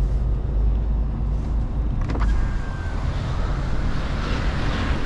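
Mercedes Actros L truck's diesel engine running with a steady low drone, with a single sharp click about two seconds in.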